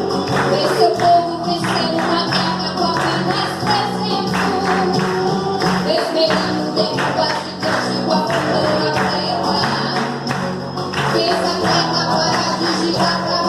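Live Brazilian gospel worship music: a band playing a steady rhythm with tambourine strikes over held bass and keyboard notes.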